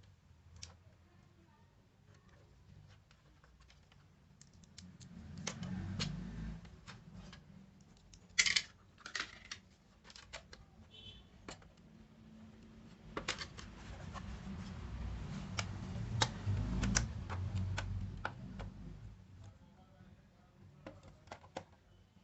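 Scattered clicks and knocks with rubbing and low rumbling handling noise, busiest in the middle and toward the end.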